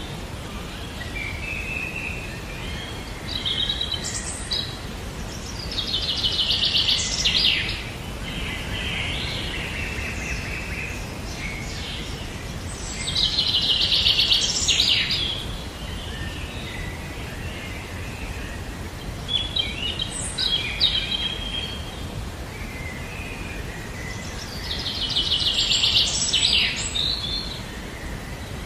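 Songbirds singing: one bird repeats a short, fast trilled song three times, several seconds apart, with scattered shorter chirps from other birds in between, over a steady low background noise.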